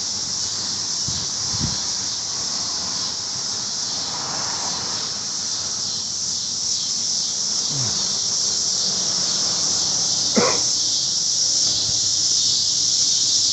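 A chorus of cicadas in the trees, a dense, steady, high-pitched drone, with a short sharp sound about ten seconds in.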